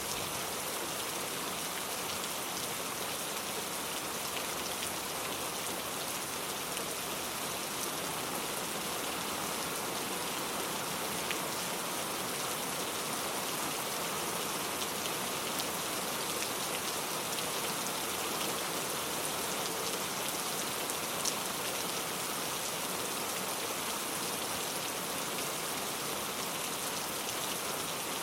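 Steady rain ambience: an even hiss of rainfall on a surface, with a couple of faint ticks.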